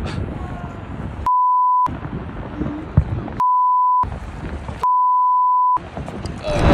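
Censor bleep: a steady high beep sounds three times, each half a second to a second long, and blanks out the speech under it. Between the beeps there is rushing outdoor wind noise, which swells loudly near the end.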